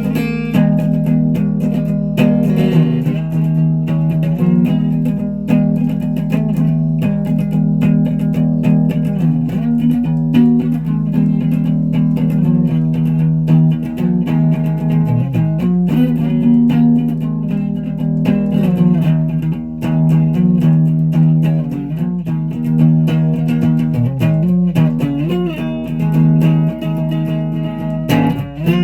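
Guitar being played: a run of picked notes with some held, ringing notes.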